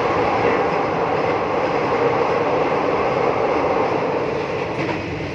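Steady running noise of a moving passenger train heard from inside the carriage, an even rumble and rattle with no breaks.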